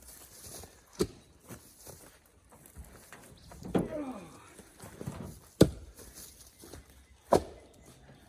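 Cherry firewood blocks thrown onto a woodpile, landing in separate sharp wooden knocks a second or more apart, the loudest about five and a half seconds in, with a rougher clatter near the middle.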